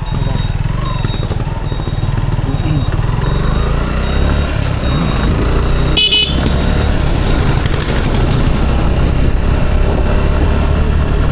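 Motorcycle riding along a road, its engine and road noise making a steady low rumble that grows a little louder in the second half. A short vehicle horn toot sounds about six seconds in, and a faint high beep repeats about twice a second in the first half.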